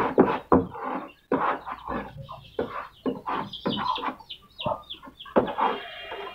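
Caged birds calling in a fast string of short calls, several a second.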